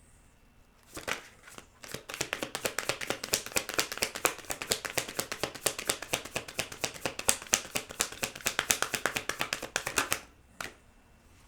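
A deck of tarot cards being shuffled by hand: a rapid run of crisp card flicks lasting about eight seconds, with a single snap just before it starts and another just after it ends.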